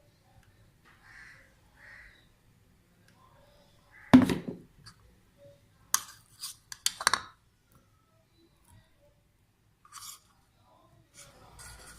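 A few sharp knocks and clinks of kitchen utensils against a cooking pot, the loudest a heavy thud about four seconds in, then a quick cluster of clinks a couple of seconds later.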